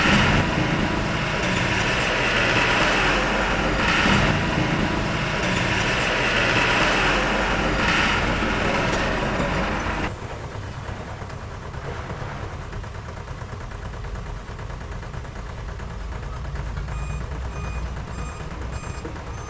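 Heavy diesel earthmoving machinery running hard and loud for about ten seconds, surging every couple of seconds. It then drops suddenly to a quieter steady engine run, and a reversing alarm starts beeping evenly near the end.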